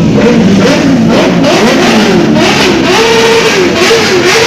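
Several superbike engines revving at once, their pitch rising and falling repeatedly and overlapping, loud throughout.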